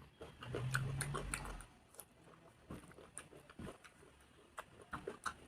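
Close-miked chewing and wet mouth sounds of a person eating dal, rice and fried vegetables: irregular soft smacks and crunches, loudest from about half a second to a second and a half in.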